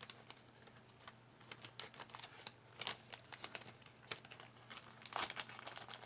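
Small items being handled: scattered crinkling and rustling with light clicks, the loudest rustles about three and five seconds in.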